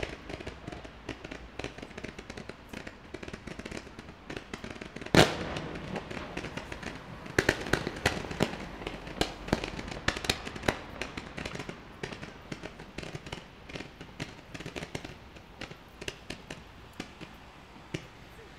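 Fireworks display: a continuous string of crackling pops and reports, with one loud bang about five seconds in and a dense flurry of bangs a couple of seconds later that thins out toward the end.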